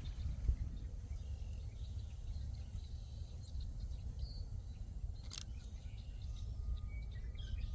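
Birds chirping here and there over a low, steady rumble of outdoor noise, with one sharp click about five seconds in.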